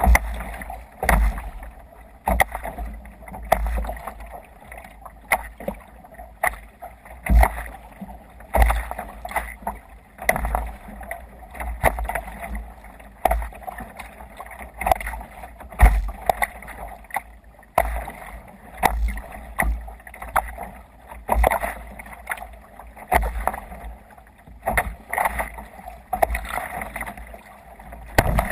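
Water splashing and slapping around a sea kayak in a steady rhythm of about one splash a second, each with a low thump.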